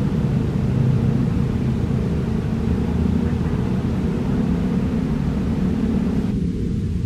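Electric commuter train approaching head-on, a steady low rumble with a fainter hiss above it that fades about six seconds in.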